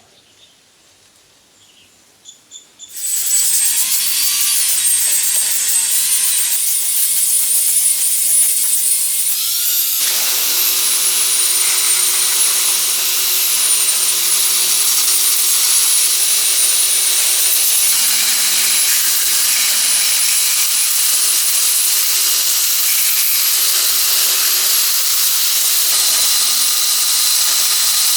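A handheld electric power tool starts about three seconds in and runs steadily under load, with a high, wavering motor whine over a harsh grinding noise.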